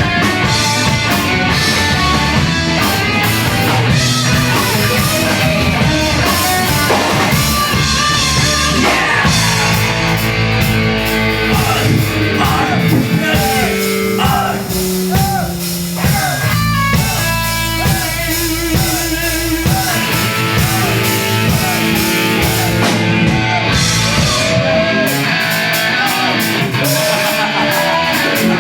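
Live post-hardcore band playing loud: electric guitars and drum kit, with vocals. About two-thirds of the way through, the deepest bass drops out for a few seconds.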